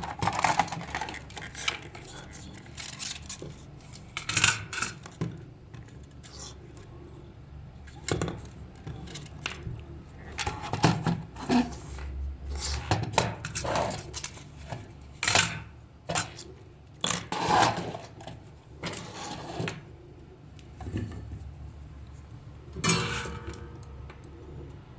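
Irregular clicks, taps and clatter of small hard objects being handled and knocked together, over a low steady hum.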